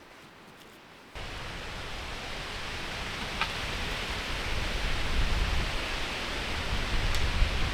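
Wind gusting through the forest trees and buffeting the microphone with a low rumble, starting suddenly about a second in and growing stronger.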